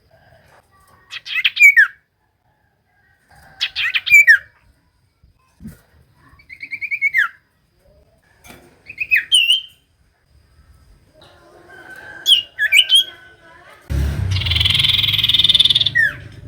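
Common iora (cipoh) calling: short whistled notes that glide down in pitch, repeated every two to three seconds. Near the end comes a louder rasping noise that lasts about two seconds.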